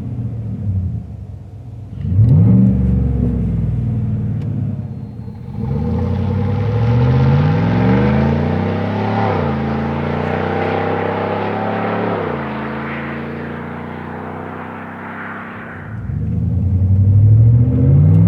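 Chevrolet Silverado/GMC Sierra 1500 5.3L V8 running through a Flowmaster Outlaw Extreme stainless cat-back exhaust, revving and accelerating. There is a short rev about two seconds in, then the engine pitch climbs and drops back twice in the middle, settles lower, and climbs again near the end.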